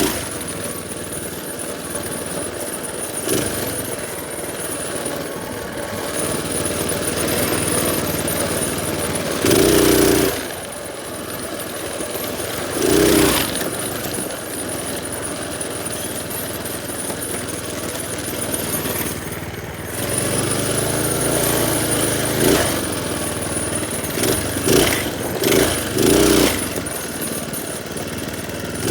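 Minibike's small engine running while being ridden, with several short, louder bursts, including a cluster near the end.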